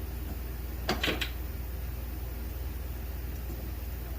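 Parts and tools being handled while bolting up a winch mount: two or three quick knocks close together about a second in, over a steady low hum.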